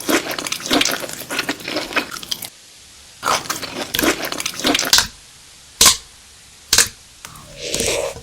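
Close-miked chewing of crunchy food: two stretches of dense crackling crunches, then two single sharp cracks a second apart, and a short mouth sound near the end.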